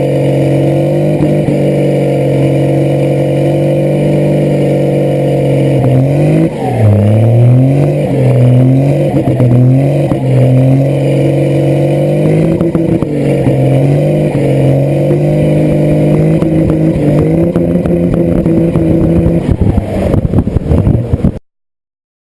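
Engine running steadily, then revved in several quick blips that rise and fall in pitch, settling back to a steady run before the sound cuts off abruptly near the end.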